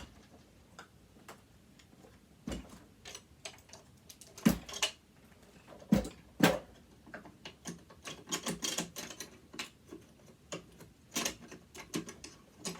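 Irregular clicks, taps and light scraping of a screwdriver and loose metal parts on a sewing machine being taken apart, with a few sharper knocks spaced a second or two apart.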